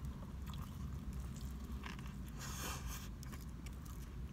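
A person chewing a mouthful of sub sandwich close to the microphone, with small wet clicks and a brief louder crunch about two and a half seconds in. A steady low hum runs underneath.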